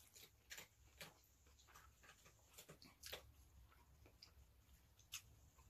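Near silence with faint, scattered wet mouth clicks from chewing a mouthful of pad thai noodles.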